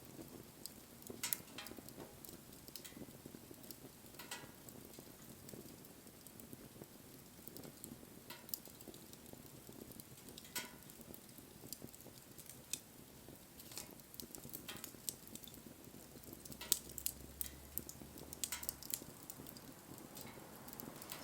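Campfire crackling: scattered sharp pops and snaps over a faint, steady hiss, with the pops coming more thickly about three-quarters of the way through.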